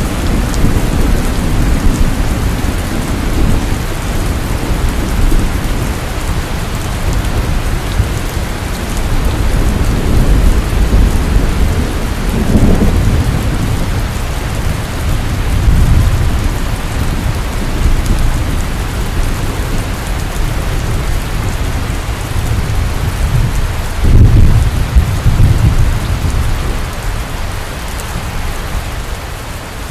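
Heavy rain hissing steadily, with low rolling thunder rumbles swelling several times, the strongest about two-thirds of the way through.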